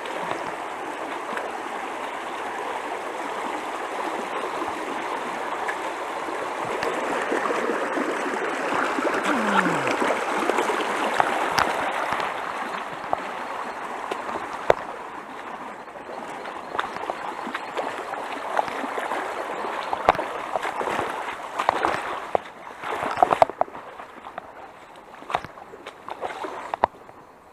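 Stream water running and gurgling over rocks, a steady rush with scattered small clicks and knocks. The rush fades markedly near the end.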